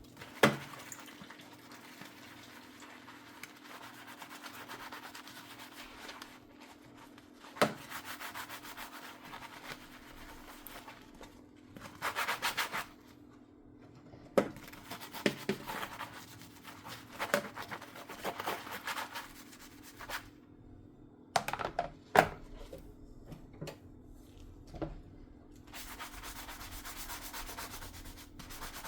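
Dishes being scrubbed by hand with a sponge, in stretches of rubbing and scouring, with a few sharp knocks of dishware being handled or set down.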